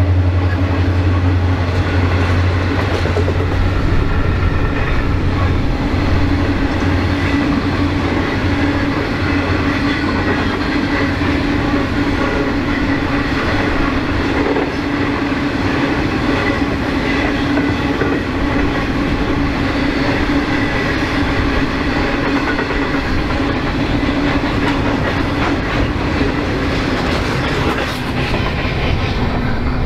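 Freight train wagons rolling past with a steady rumble of wheels on rail and some clickety-clack. A deep low hum at the start fades out about three seconds in.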